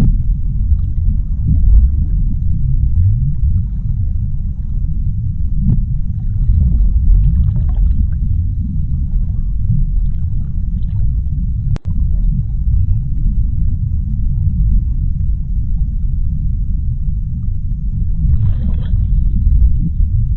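Underwater ocean ambience: a deep, steady churning rumble with faint scattered bubbling crackles above it, a brief louder fizz near the end, and a momentary dropout about twelve seconds in.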